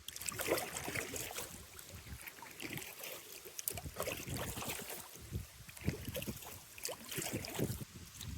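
Kayak paddle splashing in the river: irregular strokes and splashes with a few knocks.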